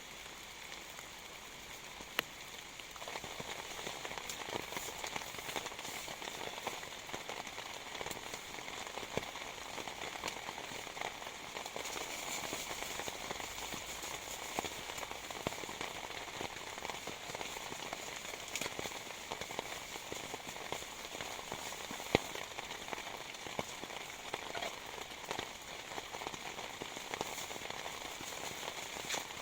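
Heavy rain falling, pattering with many sharp drop impacts; it gets louder and fuller about three seconds in, with a couple of single louder drops.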